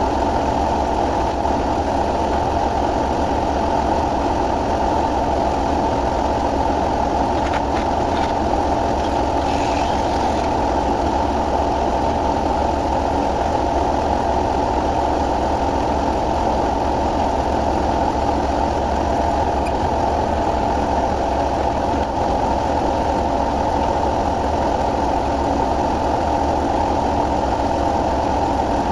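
An engine idling steadily, an even drone with no change in speed, and a few faint clicks over it.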